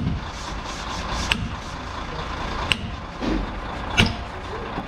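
Sharp metal-on-metal strikes, evenly spaced about one every 1.3 seconds, with a short ring after each, over steady workshop noise.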